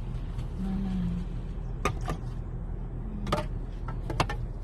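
Car heard from inside the cabin: a steady low hum of the running vehicle, with a few sharp clicks and taps. There are two clicks about two seconds in, another a little later, and a quick pair near the end.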